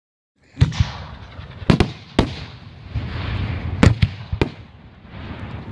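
Aerial firework shells bursting in a string of sharp bangs, about eight in five seconds, over a continuous rushing hiss. The bangs start about half a second in.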